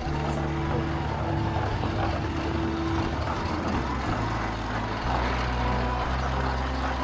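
A motor vehicle's engine running steadily with a low hum, its pitch shifting abruptly about four and five seconds in.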